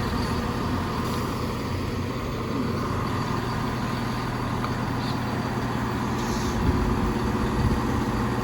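Diesel multiple unit's engines running steadily at a station platform, with a couple of faint knocks near the end.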